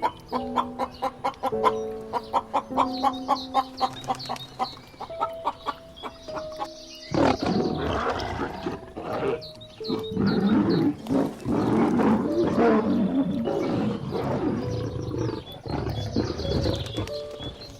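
Light background music with plucked notes, joined about seven seconds in by a large animal's loud, rough calls in repeated stretches over the music.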